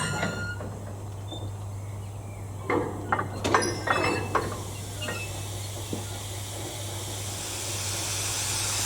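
A handful of sharp metallic clinks and clanks in quick succession, then steam hissing from a steam locomotive, growing steadily louder over the last couple of seconds.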